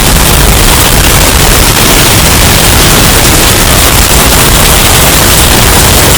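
Hurricane wind sound effect, bass boosted and heavily distorted into a steady, extremely loud rush of clipped noise with heavy low rumble.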